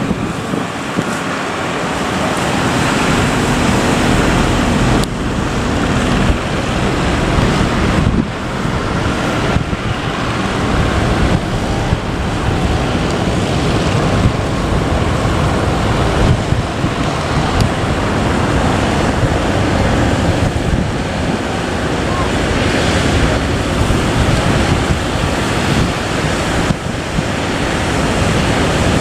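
Large ocean waves breaking at an estuary mouth, with wind buffeting the microphone.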